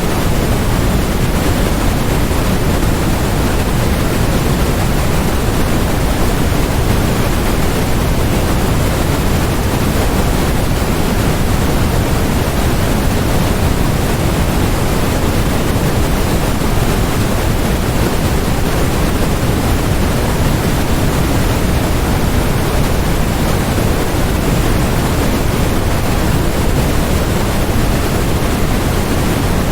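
Steady, unchanging noise: an even hiss across the whole range, weighted toward the low end so that it sits closer to pink noise than flat white noise.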